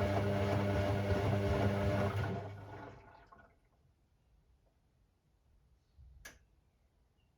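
Hoover Sportswear 1300 washing machine turning its drum: motor hum with water sloshing, running for about two and a half seconds and then winding down to a pause, with a single sharp click about six seconds in.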